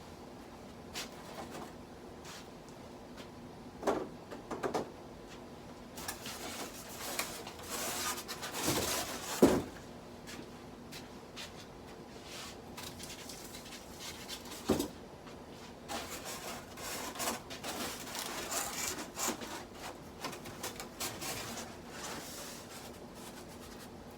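Handling noises as a covering is pulled back off a model railroad layout: irregular rubbing and rustling with several sharp knocks, the loudest about four, nine and fifteen seconds in.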